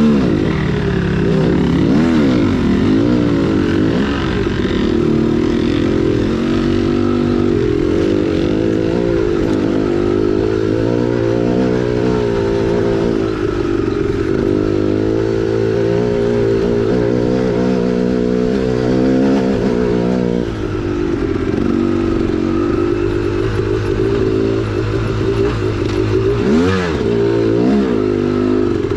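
2010 KTM 300XC-W two-stroke dirt bike engine running while riding a trail, revs rising and falling over and over, with some clatter.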